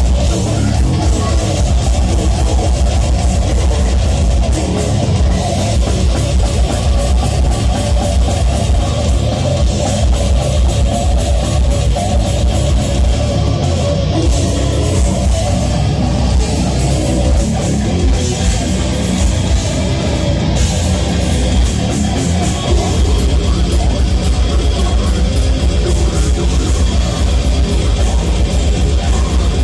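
A heavy metal band playing live and loud: distorted electric guitars over a drum kit, with heavy bass.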